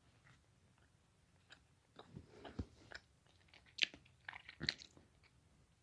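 Faint, close-up chewing of a Jack Link's teriyaki beef steak meat snack: a quiet start, then a run of short wet mouth clicks and chews from about two seconds in.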